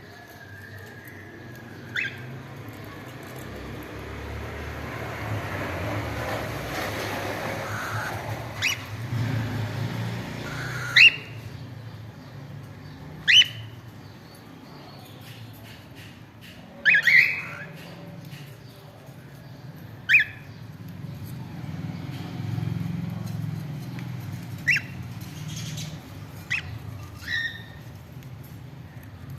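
Cockatiels giving short, sharp chirps that sweep upward in pitch, about nine scattered through the stretch, the loudest a little after the first third. A soft rustling noise swells and fades underneath during the first third.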